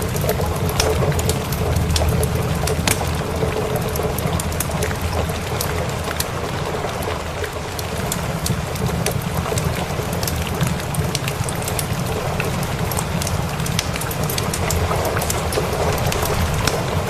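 Steady rain hiss mixed with a crackling wood fire: many small sharp pops and clicks scattered throughout, over a steady low rumble.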